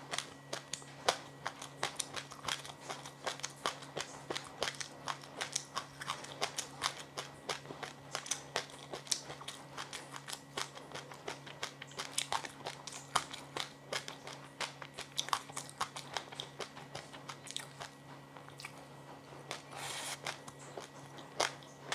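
Close-up chewing and biting of a crunchy snack: a rapid, irregular run of sharp crunches, several a second, over a faint steady low hum, with a brief rustle near the end.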